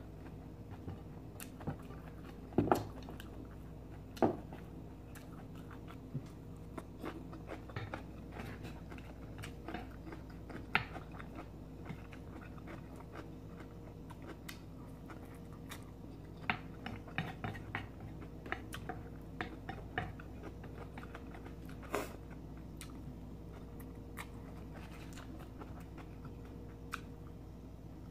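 A person chewing rice noodles eaten with chopsticks, close up, with scattered soft mouth clicks and smacks and a few louder clicks. A faint steady hum sits underneath.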